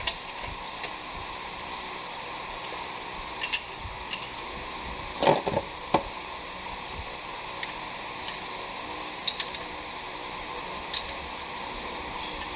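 Metal hand tools clinking and clanking now and then, about a dozen sharp knocks with a small cluster near the middle, over a steady background hiss.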